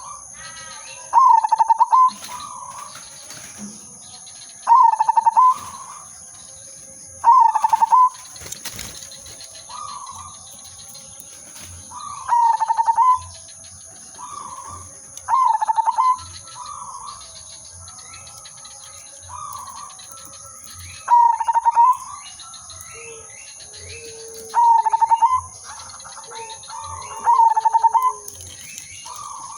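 Zebra dove (perkutut) singing. It repeats its cooing phrase about every three seconds: a quick stuttering run of notes ending in a held coo. Softer coos come between the phrases.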